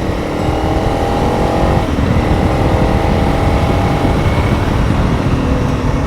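Honda CRF300 Rally's single-cylinder engine accelerating: the revs climb, drop at a gear change about two seconds in, then climb again. Wind buffets the microphone throughout.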